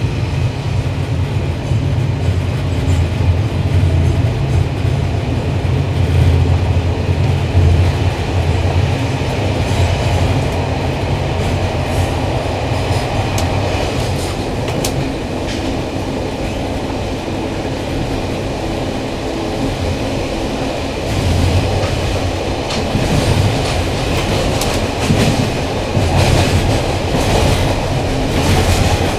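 Ride noise inside an old locomotive-hauled passenger coach under way: a steady low rumble with the wheels clicking over rail joints, the clicks coming thicker in the second half.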